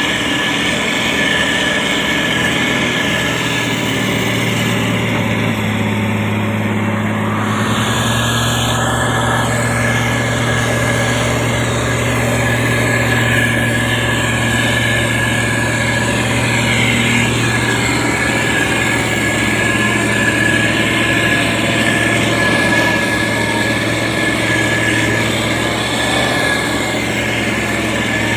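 Motor grader's diesel engine running steadily, with a steady high whine over the low engine hum; the engine note shifts slightly about eight seconds in.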